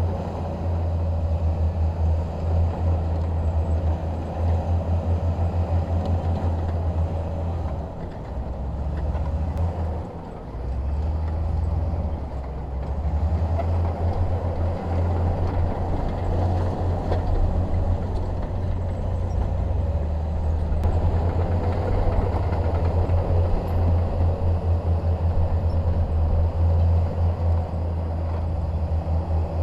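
Komatsu D21P bulldozer's diesel engine working under load with a steady low throb. It eases off briefly about a third of the way through, then picks up again.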